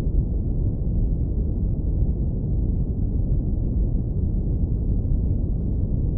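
Synthetic brown noise low-pass filtered to a deep, warm rumble: a steady, even hiss-free roar with almost everything in the bass.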